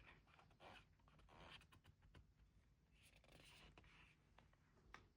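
Faint rustling of paper and plastic album packaging being handled, in several short bursts, with a few light taps and clicks; one sharper click near the end.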